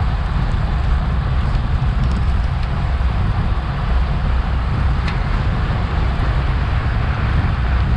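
Steady wind rush on an action camera's microphone from a bicycle racing at speed, a deep buffeting rumble with a hiss of road and air noise above it.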